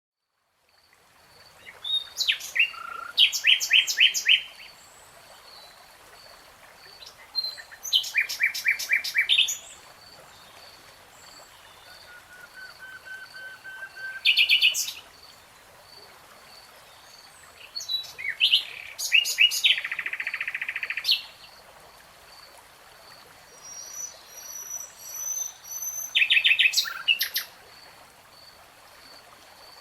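A songbird singing in about five short phrases a few seconds apart. Each phrase is a quick run of repeated chirps, and one near the middle is a buzzy trill. Faint high pips repeat about twice a second underneath.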